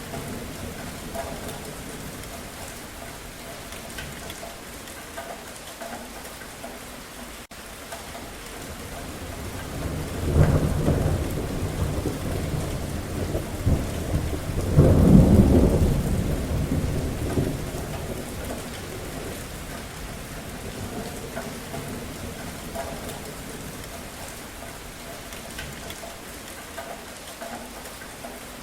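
Steady rain falling, with a roll of thunder that builds about ten seconds in, peaks around fifteen seconds with a deep rumble, and dies away a few seconds later.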